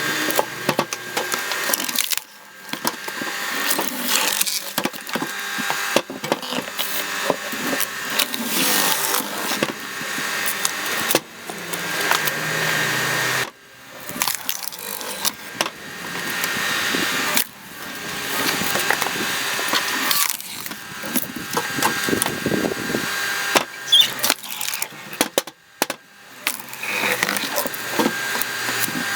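Screw-cone log splitter forcing logs apart: wood creaking, cracking and splintering over a faint steady machine whine. It comes in several spells, each stopping abruptly after a few seconds.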